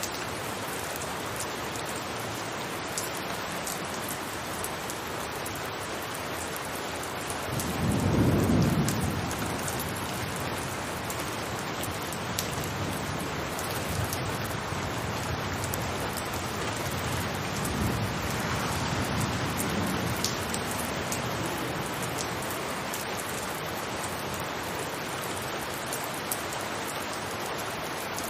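Steady rain falling on a rooftop, with scattered sharper drop ticks. A low rumble of thunder swells and fades about eight seconds in, and fainter rumbles follow later.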